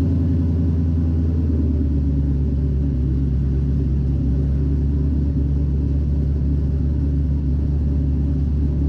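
Twin-turbo LS V8 idling steadily in an LS-swapped BMW E36, running on newly fitted 850cc injectors and a fresh tune.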